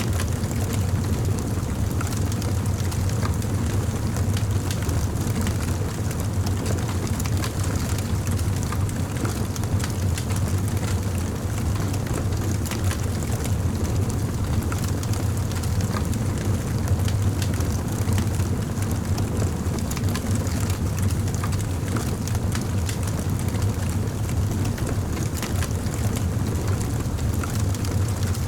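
Campfire burning, with scattered crackles and pops over a steady low rumble.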